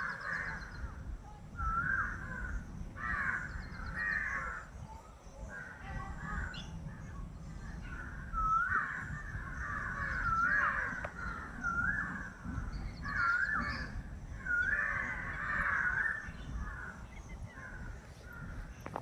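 Crows cawing over and over, a harsh call about every second, over a low rumble.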